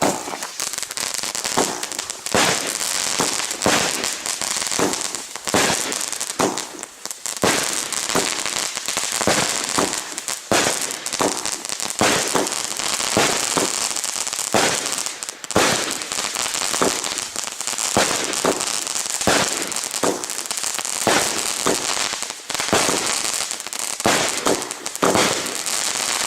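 A 'Super Crackling Rainbow' consumer firework burning, giving dense crackling with many sharp pops over a steady high hiss.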